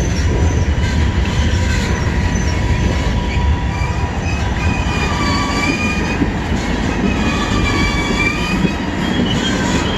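CN freight train's cars rolling by with a steady low rumble as the train slows to stop for a red signal. High, wavering wheel-and-brake squeal grows in from about four seconds in.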